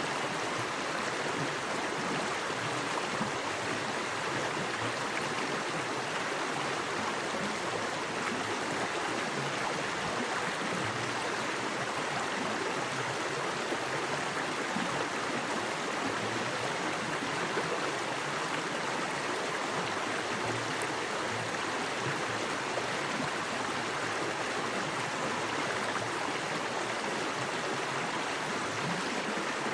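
Small forest creek with fast water running over rocks: a steady, even rush with no breaks.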